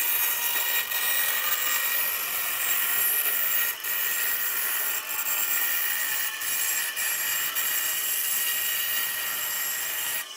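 A power tool working wood: a steady high whine over a hiss, with a few short clicks along the way.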